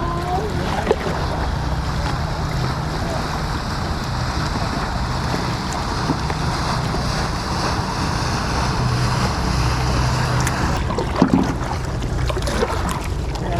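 Steady wind buffeting the microphone over water washing against a kayak, with a couple of short knocks about three-quarters of the way in.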